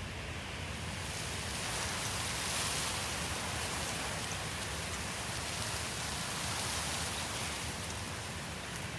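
Steady rushing of running water, an even hiss with a low rumble beneath, swelling slightly a couple of seconds in.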